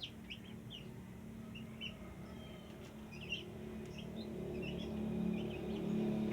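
Sooty-headed bulbul giving short, scattered chirping calls rather than a full song. A steady low hum runs underneath and grows louder toward the end.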